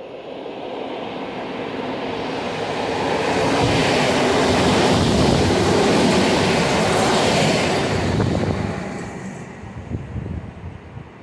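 EN57 electric multiple unit passing close by: it swells up as it approaches, is loudest about four to seven seconds in, then fades as it runs away down the line.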